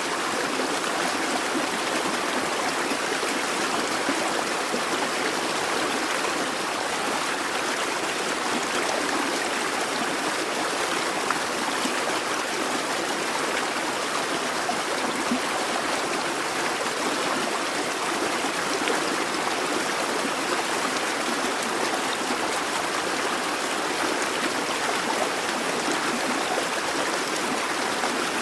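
Babbling brook: fast water running and bubbling over stones in a steady, even rush.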